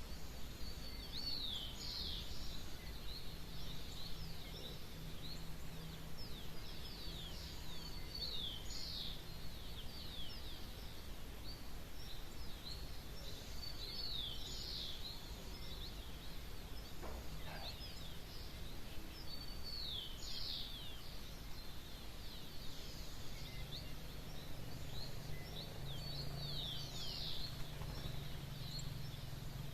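Songbird singing, repeating a short phrase of quick falling whistled notes about every six seconds, with fainter chirps in between. A faint low steady hum lies underneath.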